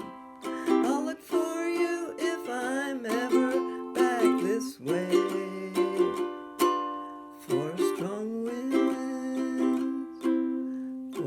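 Ukulele strummed in chords, with a voice singing over it in places.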